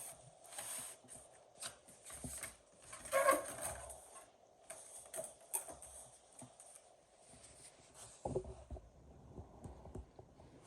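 Cardboard box and packaging being handled and opened: scattered rustles, scrapes and light knocks, with a louder rustle about three seconds in and a thump just after eight seconds.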